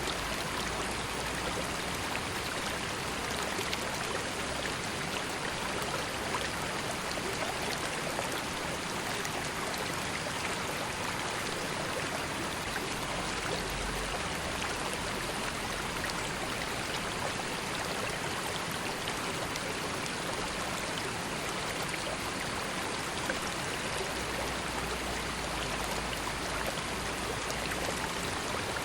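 River water flowing, a steady even rush of running water with fine splashing.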